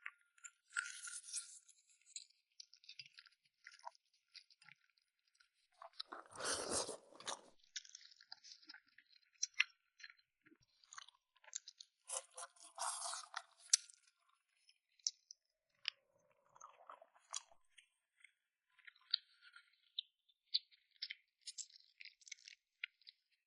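Close-miked eating of softshell turtle: wet chewing, sucking and small clicks as the meat is worked off the bones, with two louder noisy bursts, about six seconds in and again about twelve seconds in.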